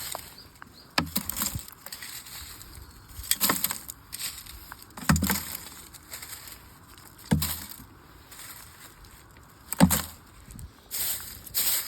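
Firewood being chopped: five separate blows a couple of seconds apart, each a dull thud with a sharp crack of splitting wood.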